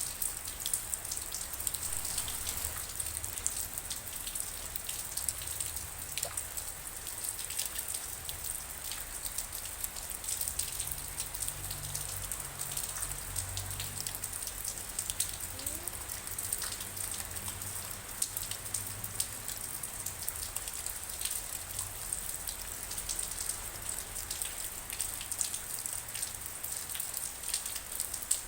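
Steady rain falling, with many separate drops striking a surface close by as quick irregular ticks over the hiss.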